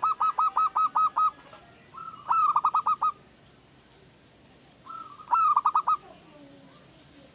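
Male zebra dove (perkutut) singing: rapid bursts of quick, evenly repeated cooing notes in three phrases, one ending about a second in, the next about two seconds in, the last about five seconds in. A young wild-caught bird only just beginning to sing regularly.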